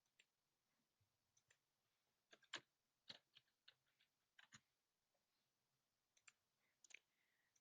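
Faint, irregular clicking of a computer mouse and keyboard, a dozen or so short clicks in uneven clusters.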